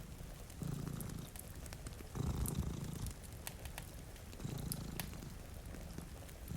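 Domestic cat purring close up, in slow swells about two seconds apart as it breathes in and out. Sharp little crackles of a wood fire are scattered over it, with a faint hiss of rain.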